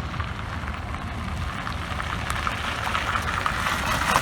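A car driving up: low engine rumble with a hiss of tyre and road noise that grows louder over the last couple of seconds as it approaches.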